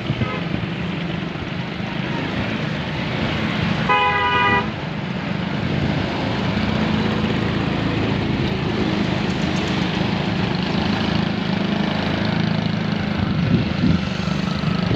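Small motorcycle engine running steadily, powering a homemade mini truck, with one short horn toot about four seconds in.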